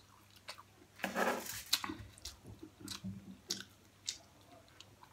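A person chewing a mouthful of food close to the microphone. It comes as a string of short, sharp mouth clicks, with a longer, noisier stretch of chewing about a second in.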